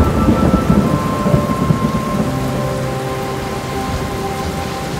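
Steady heavy rain with a rumble of thunder that is strongest in the first two seconds and then eases. Soft sustained musical notes sound underneath.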